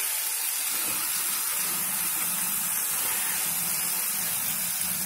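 Chopped brinjal frying in oil in an open nonstick kadai: a steady sizzle as it is stirred with a spatula.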